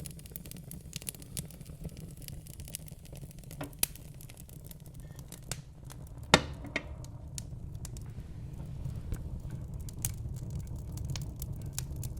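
Wood fire burning in a fireplace: a steady low rumble of flames with scattered crackles and a few sharper pops, the loudest pop about six seconds in.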